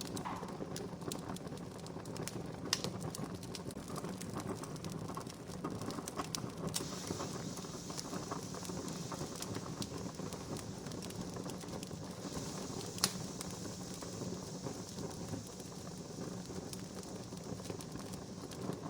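Wood fire crackling steadily with scattered clicks and pops, two of them sharper and louder: one about three seconds in and one about thirteen seconds in.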